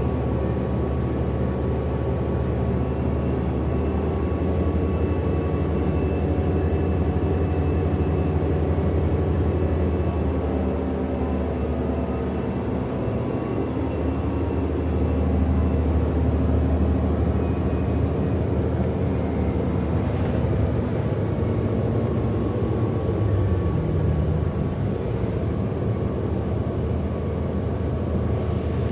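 2008 Orion VII NG diesel-electric hybrid bus in motion, heard from inside: a steady low engine and drivetrain drone with a thin high whine from the drive motor, swelling slightly about halfway through.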